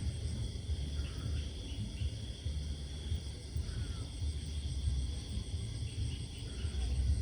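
Crickets and other night insects trilling steadily in high-pitched bands over a constant low rumble, with a few faint short calls about one, four and six and a half seconds in.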